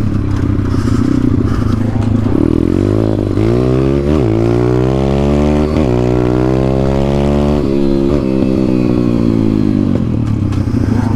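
Dirt bike engine accelerating up through the gears. The revs climb and fall back sharply at a gear change about four seconds in, climb again to a second shift about six seconds in, then rise more slowly to a third shift near eight seconds before running steadier.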